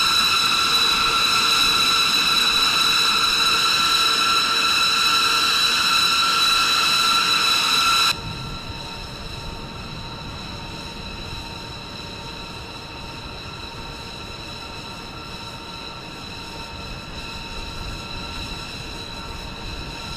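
Jet engine running steadily with a high-pitched whine of several held tones over a rushing noise; about eight seconds in it drops suddenly to a lower level and carries on.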